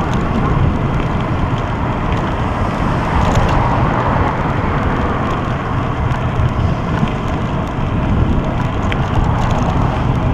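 Wind rushing and buffeting over the microphone of a camera riding on a moving bicycle, a steady low rumbling noise, with a few faint ticks.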